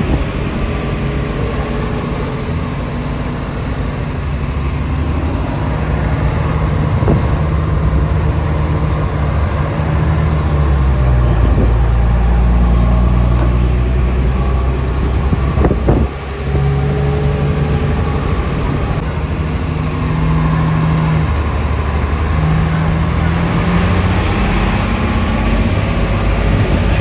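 Tour bus engine running as the bus drives along, heard from inside the bus; its note steps up and down several times, with a short drop in level about sixteen seconds in.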